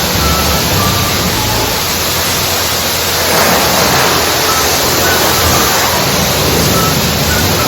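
Self-serve car wash pressure wand spraying wax solution onto a car: a steady hiss of water spray.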